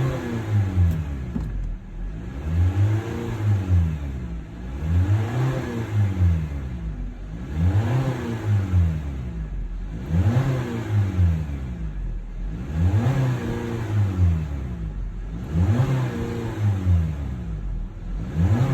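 2020 Honda Civic engine revved repeatedly: about seven revs, each rising in pitch and falling back to idle, roughly one every two and a half seconds.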